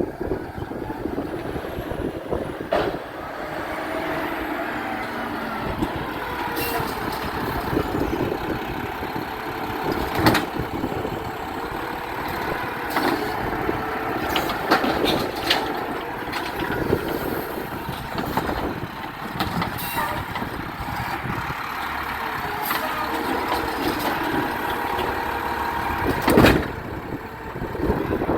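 Garbage truck running, its engine note rising and falling, with a few sharp metallic bangs.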